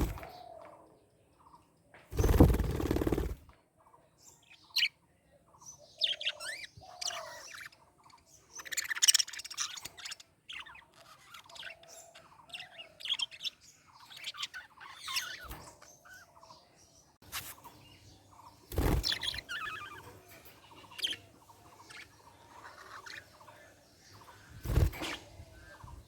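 Budgerigars chirping and warbling in short, scattered bursts of quick, fast-changing notes. Three louder, brief noisy bursts break in, the longest about two seconds in and others at about 19 and 25 seconds.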